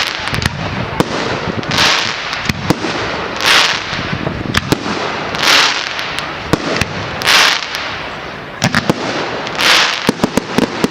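Firework display: a hissing rush about every two seconds among sharp bangs and crackling pops, with a quick run of bangs near the end.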